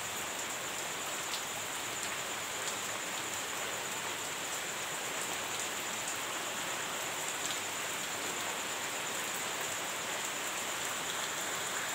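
Heavy rain falling steadily: an even hiss with a few faint, sharp ticks of single drops striking a surface.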